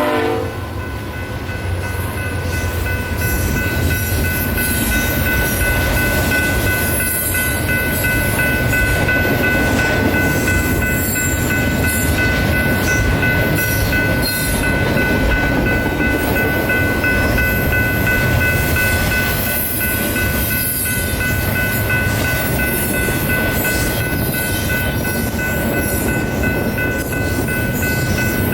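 A train rolling past with a steady rumble and faint repeated clicking of wheels over rail joints, and a steady high-pitched whine held throughout.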